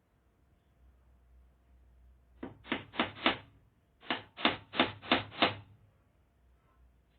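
Hammer driving a nail: a run of four quick blows, a short pause, then five more blows at about three a second.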